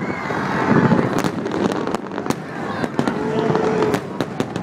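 Aerial fireworks shells bursting in a rapid, irregular run of sharp bangs and crackles, with a crowd talking underneath.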